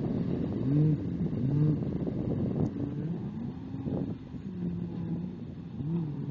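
Jet ski engines revving, their pitch rising and falling about once a second over a steady wash of noise.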